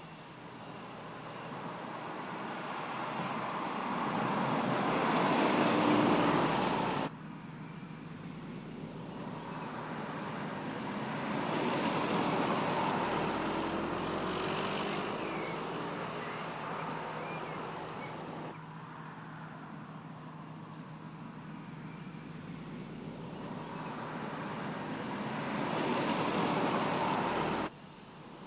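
Car engine and road noise building over several seconds, in three stretches that each cut off abruptly.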